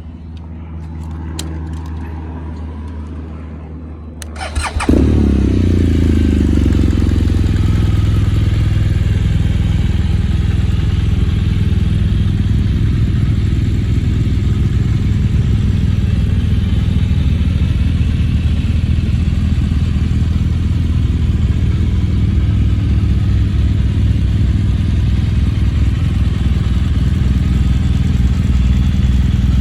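BMW R1200GS flat-twin (boxer) engine with an aftermarket Akrapovic exhaust starting up about five seconds in, then running at a steady idle.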